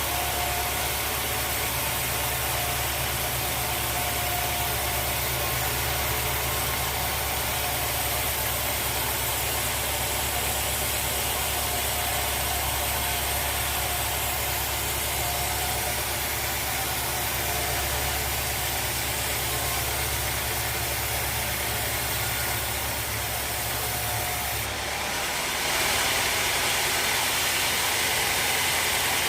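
Sawmill machinery running steadily, a low motor hum with a steady whine over it. About 25 seconds in the sound shifts: the low hum drops away and a louder, higher hiss takes over.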